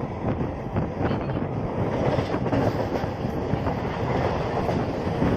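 Local electric train running along the track, heard from aboard: a steady rumble with rapid rattling and clatter from the coaches and wheels, and wind rushing past.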